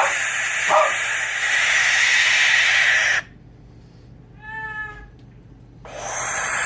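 Wild animal calls: two short cries over a steady hiss. Then the hiss stops abruptly to near quiet, broken by one brief pitched call that falls slightly. The hiss comes back near the end.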